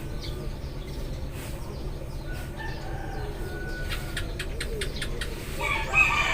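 Eurasian tree sparrows chirping in short, scattered notes, with a quick run of sharp chips about four seconds in. Near the end a rooster starts crowing, the loudest sound, over a steady low background rumble.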